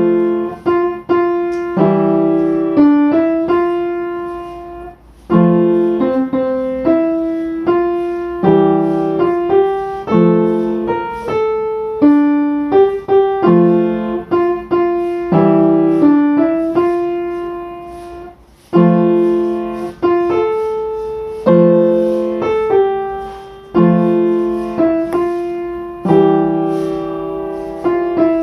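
Solo piano music: a gentle melody of struck notes over bass notes that recur about every two and a half seconds, each note ringing and fading.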